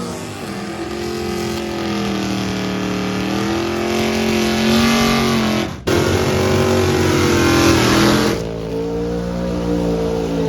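Car engine heard from inside the moving car, its note rising and falling as it accelerates and eases off, over road and wind noise. It breaks off abruptly about halfway through and picks up again, then drops back near the end.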